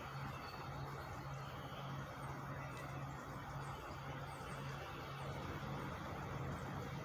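An engine running steadily at high revs: a constant low hum over an even rushing noise.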